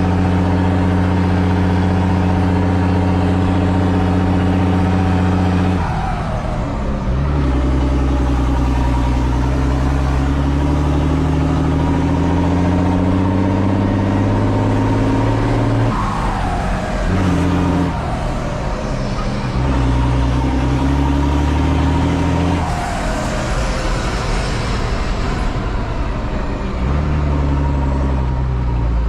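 Same Titan 160 tractor's six-cylinder diesel running under load. It holds steady at first, then three times its pitch drops suddenly and climbs slowly again, as when accelerating through the gears. Each drop comes with a short falling whine.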